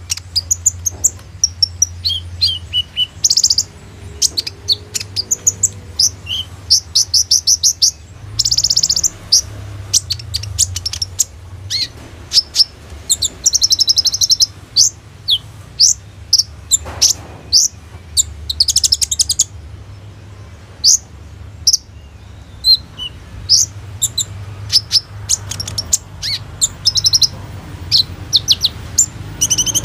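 Kolibri ninja sunbird singing a busy, unbroken run of sharp high chirps, broken by several dense, rapid trills, over a steady low hum.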